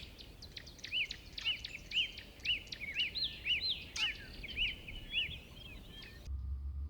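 Birds calling: a repeated short whistled note that rises and falls, about two a second, over other chirps. Near the end the sound cuts off abruptly to a low steady hum.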